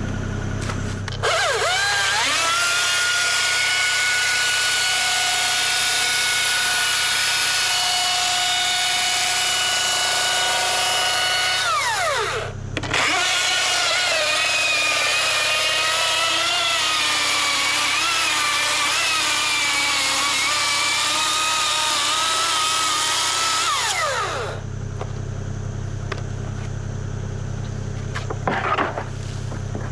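Power tool working wood in two long runs of about eleven seconds each, spinning up at the start and winding down at the end of each, with a short break between them.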